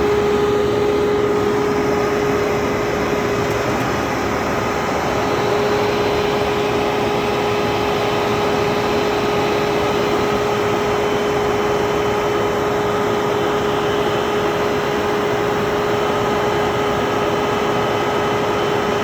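Air conditioning unit running: a steady rush of air with a constant mid-pitched hum over it.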